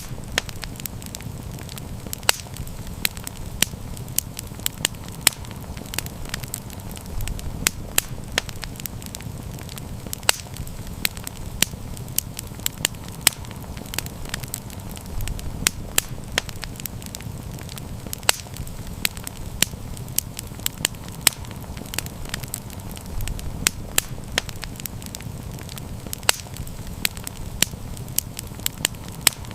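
Wood campfire burning steadily, with a low rumble of flame under frequent sharp, irregular crackles and pops.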